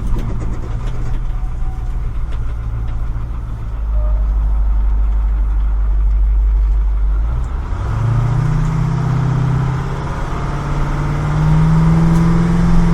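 Truck engine running steadily, then speeding up in two steps about eight and eleven seconds in, its pitch rising each time.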